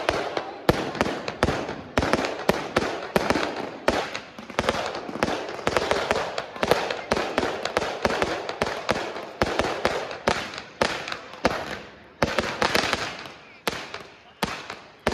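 Fireworks going off in rapid, irregular succession, a few sharp bangs each second with crackling between them, thinning out to fewer, more widely spaced bangs near the end.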